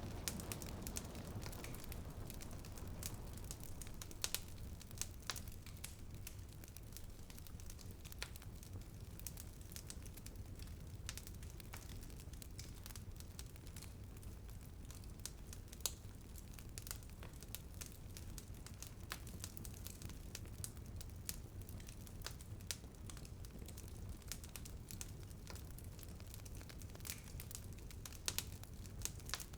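Wood fire in a fireplace crackling, with frequent sharp irregular pops over a low steady rumble. A patter of rain on the window fades out in the first couple of seconds.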